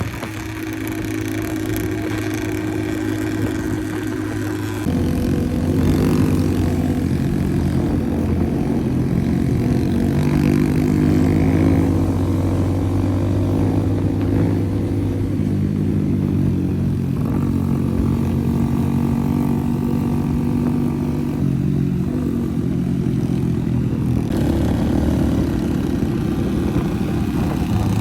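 Off-road vehicle's engine running continuously, getting louder and shifting pitch about five seconds in, then stepping down and back up twice near the end.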